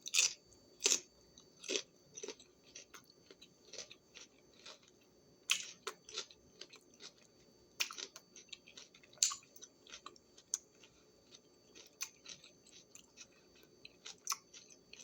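Crunchy bites and chewing of a raw green bell pepper topped with cream cheese, close to the microphone. There are a few loud crunches, near the start and again around the middle, with a run of softer, quick chewing clicks in between.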